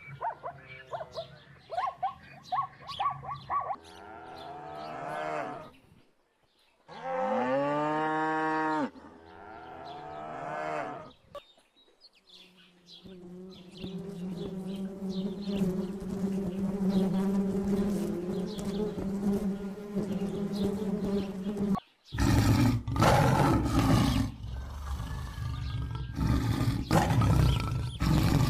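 A sequence of different animal calls edited one after another: short pitched calls, a strong arching call, a long steady drawn-out call, then loud rough roars near the end.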